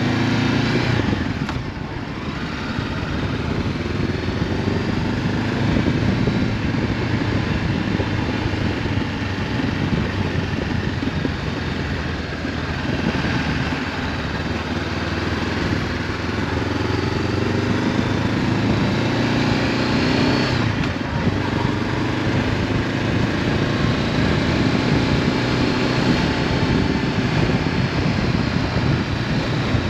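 Honda CB500F parallel-twin motorcycle engine running under way through an Akrapovic exhaust, its revs rising and falling with throttle and gear changes. Wind noise rushes over the helmet-mounted camera.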